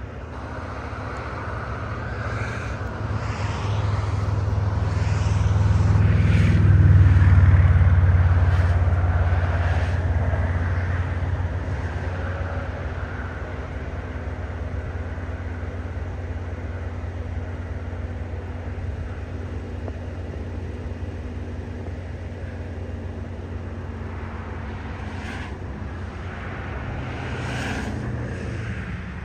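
Low, heavy rumble of a steam-hauled double-header train, building to its loudest about seven seconds in and then settling into a steady rumble, with short sharp sounds every few seconds.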